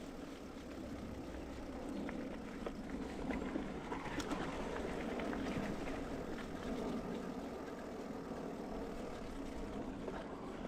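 Mountain bike rolling along a dirt singletrack: a steady rush of tyre and trail noise with scattered small clicks and rattles.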